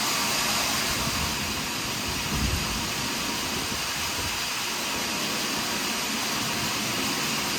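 Sawmill saw running steadily, with a brief low thump about two and a half seconds in.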